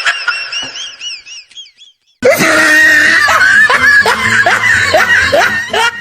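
A high, squeaky warbling sound fades out over the first two seconds. After a brief silence, loud laughter comes in repeated bursts, each sliding down in pitch, and cuts off suddenly at the end.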